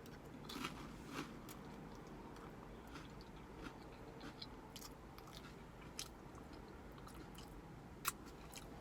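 Close-up eating sounds: a person chewing chili with saltine crackers, with small crunches and scattered mouth clicks. The sharpest click comes near the end.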